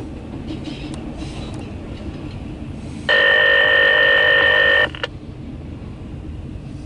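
Railroad scanner radio sounding a loud, steady call tone for about two seconds in the middle, the tone a train crew keys to call the dispatcher, over a low rumble of radio noise.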